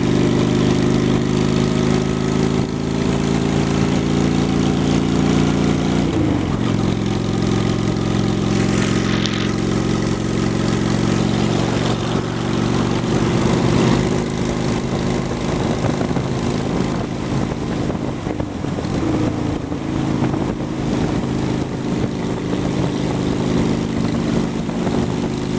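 2003 Honda Shadow 750 V-twin with Cobra aftermarket pipes running steadily under way. Its engine note dips briefly about six seconds in and shifts slightly a couple more times.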